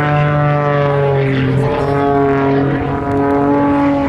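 Zivko Edge 540 aerobatic monoplane's six-cylinder piston engine and propeller running hard in flight, a loud, steady, buzzing engine note whose pitch drops slightly a little over a second in.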